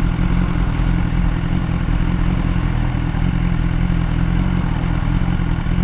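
BMW S1000R's inline-four engine running at steady revs, with a constant pitch.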